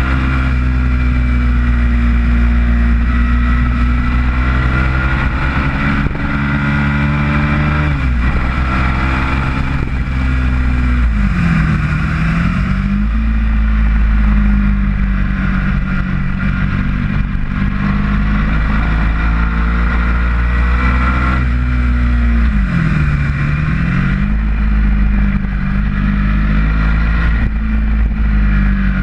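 Ducati motorcycle's V-twin engine running hard at high revs around a racetrack. Its pitch falls and climbs back twice, about twelve seconds in and again near twenty-three seconds, as the rider comes off the throttle for corners and accelerates out. Wind rushes over the microphone throughout.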